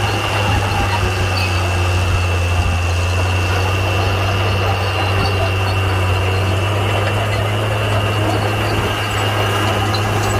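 Komatsu D41P bulldozer's diesel engine running at a steady speed, a deep even hum with a steady high whine over it.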